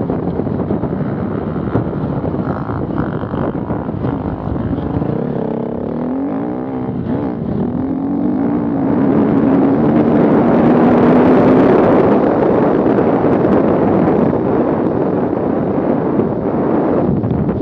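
Off-road vehicle engine running under load with a wavering pitch, growing louder about nine seconds in and peaking shortly after, over a steady noisy rush.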